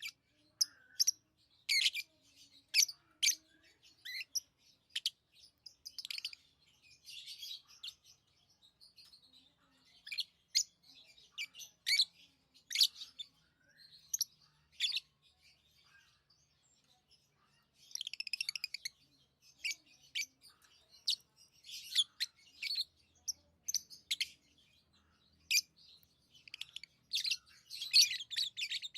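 Pet lovebirds chirping: short, sharp, high calls at irregular intervals, with a couple of brief lulls and bursts of denser chatter about two thirds of the way through and again near the end.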